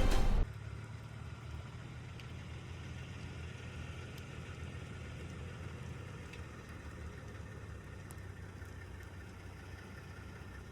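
Music cuts off about half a second in, leaving a truck engine idling steadily as a low, even hum.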